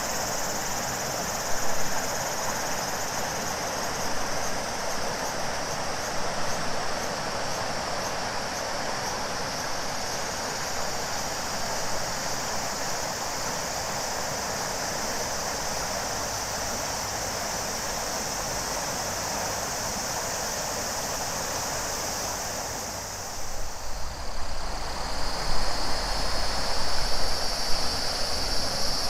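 River water flowing steadily, with a chorus of summer cicadas shrilling in a high pulsing band above it. About three-quarters of the way through the sound briefly dips, then comes back uneven and louder, with a deeper rumble and a new steady high cicada tone.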